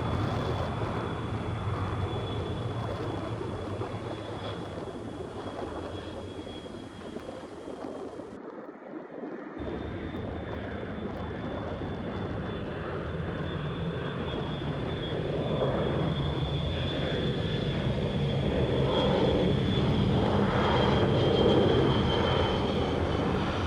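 Jet airliner engines rumbling on departure with a steady high whine, the noise fading away, cutting out completely for about a second a little before halfway, then building louder again.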